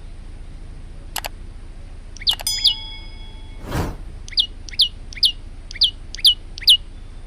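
Male olive-backed tailorbird calling: a run of six sharp, downward-sliding notes at about two a second in the second half, after a few clicks and short falling notes. Near the middle a brief burst of noise, like a thump or rustle, is louder than the rest.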